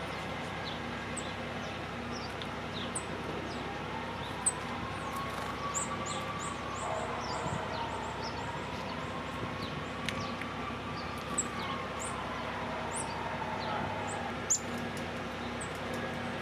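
Small songbirds at a feeder giving many short, high chirps over a steady hum of background outdoor noise, with a few sharp clicks. In the middle a faint, long tone slowly rises and falls over about ten seconds.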